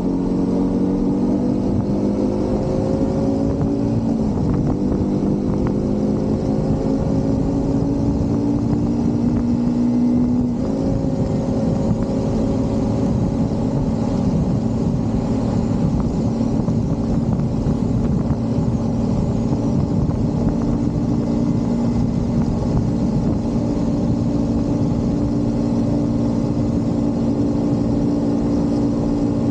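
Motorcycle engine under way, its note climbing under acceleration with gear changes about 4 and 10 seconds in, then holding a steady cruising note, with constant wind and road noise.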